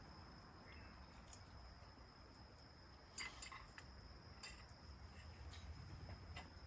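Near silence with a few light clinks, a quick cluster about three seconds in and single ones later, over a faint steady high tone.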